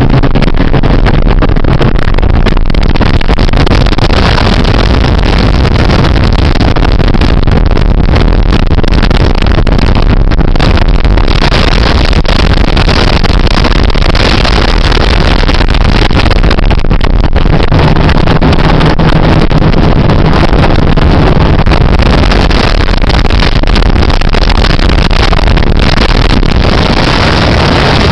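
Motorboat under way, its engine running loud and steady.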